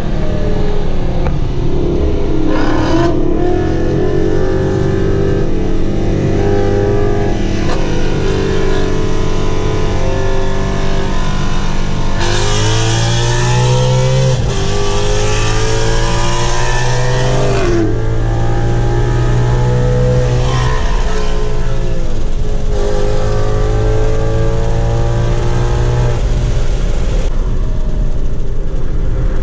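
Car engine heard from inside the cabin under hard acceleration through a 10-speed automatic, the pitch climbing in stretches and dropping back at each upshift, about five shifts in all. The pitch steadies near the end.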